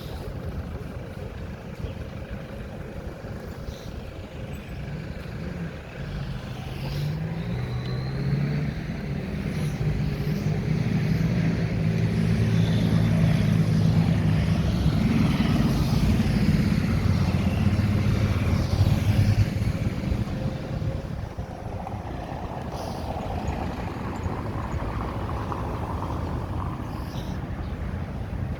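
Street traffic on a busy avenue. A motor vehicle's engine grows louder, is loudest for several seconds around the middle as it passes, then fades, over a steady background of traffic noise.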